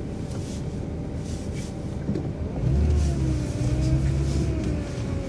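City transit bus engine running. About two and a half seconds in, the engine pulls harder, its note rising and then holding as the bus accelerates through a turn.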